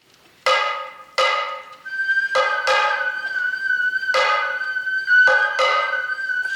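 Kagura hayashi music of Kasai sato kagura: sharp, ringing drum strokes at an uneven pace, joined about two seconds in by a Japanese bamboo flute holding one long high note.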